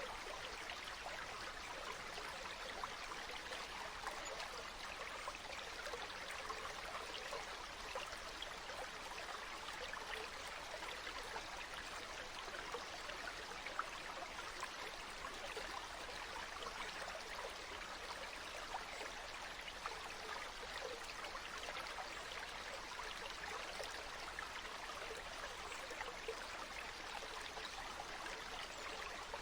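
Stream water flowing steadily: an even rush of running water dotted with small splashes and trickles.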